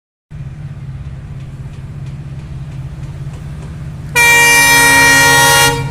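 Indian Railways train horn sounding one loud, steady blast about four seconds in, lasting a second and a half and cutting off sharply, over a steady low rumble with faint regular ticks.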